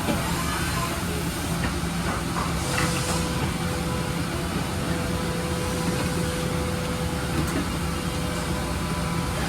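Kan KH-6 CNC deburring and parts-washing machine running: a steady hum with a hiss over it, and a steady whine that comes in about a quarter of the way through.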